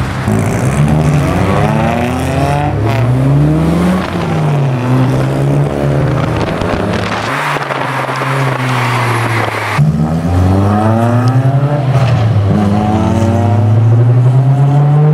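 Honda Integra Type R four-cylinder engine through a Spoon N1 exhaust, accelerating hard through the gears. Its pitch climbs steeply on each pull and falls away at each gear change or lift-off, several times over.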